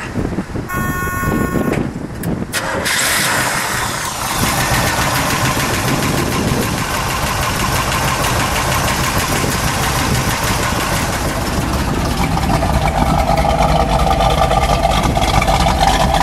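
Pontiac SD-455 Super Duty V8 in a 1973 Trans Am being started: a short buzzing tone, then the engine fires about three seconds in and settles into a steady idle.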